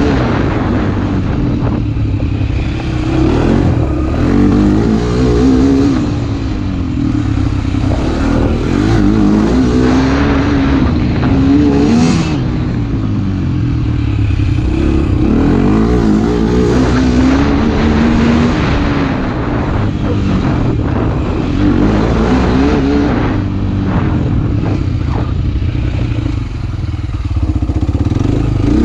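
Motorcycle engine running under way, its pitch rising and falling again and again as it accelerates and eases off, over a steady rush of noise.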